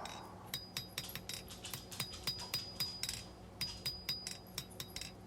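Light, quick hammer blows on hot knife steel over the horn of an anvil, about four or five strikes a second, with a faint high ring, cleaning up the blade's shape.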